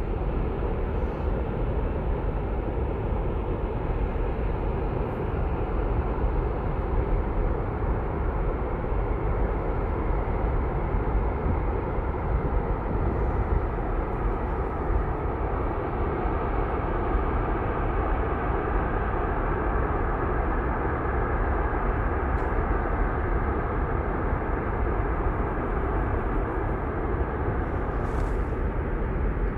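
Steady road and engine noise of a car driving, an even low rumble with no change in pace.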